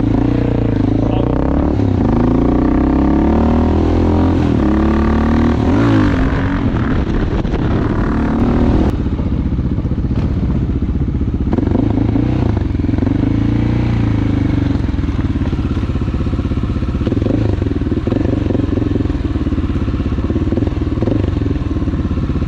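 Motorcycle engine running under way, its pitch rising and falling with throttle and gear changes for the first several seconds, then steadier, with another pull about halfway through.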